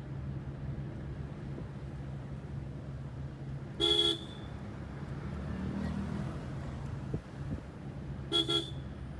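Road vehicle engine running steadily, with a horn honked once about four seconds in and then two quick toots near the end.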